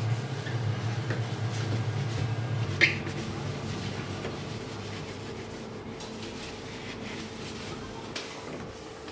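A low hum that stops nearly three seconds in with one sharp clink, followed by soft clicks and knocks of kitchen things being handled.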